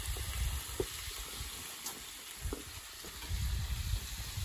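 Pork belly sizzling on an iron griddle plate over a wood fire: a steady frying hiss, with a few short knocks and some low rumbling.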